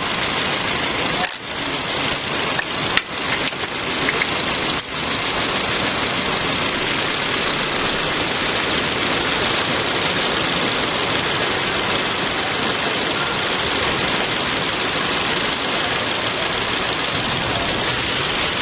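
2006 Toyota Corolla engine idling steadily under a misfire, a sound the technician takes to be a small intake (vacuum) leak; the sound dips briefly a few times in the first five seconds.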